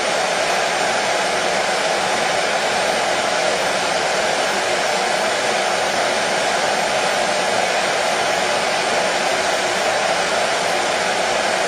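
Hair dryer running steadily, a constant blowing hiss with no change in speed, used as white noise to settle a baby.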